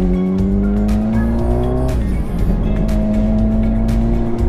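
Motorcycle engine pulling under acceleration, its pitch climbing steadily, then dropping sharply about two seconds in as the rider shifts up, and holding steady after that. Low wind rumble on the microphone runs underneath.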